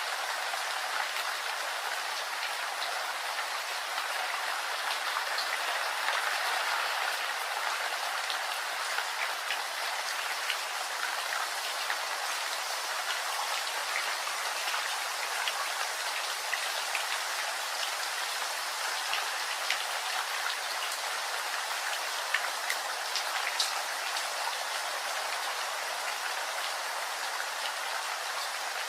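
Steady rain falling, with many small, sharp drop impacts ticking over an even hiss.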